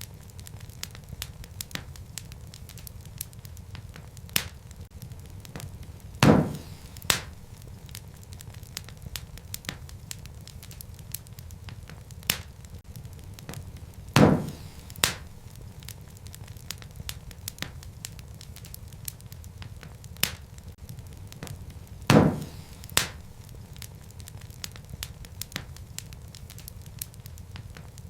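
Wood fire burning in a fireplace: a steady low rumble of flames with constant small crackles of the burning logs. Louder pops come about every eight seconds, each followed by a second pop under a second later.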